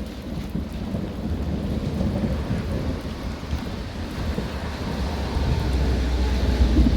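Continuous rolling thunder rumbling low, growing louder over the last couple of seconds, with rain falling steadily.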